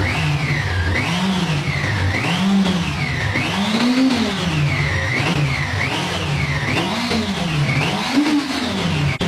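Honda CB400 motorcycle engine running and being revved repeatedly, its pitch climbing and dropping back roughly once a second.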